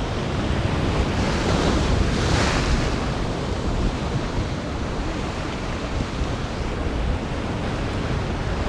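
Gulf surf washing against jetty rocks, with wind rumbling on the microphone; one wave surges and hisses louder about one to three seconds in.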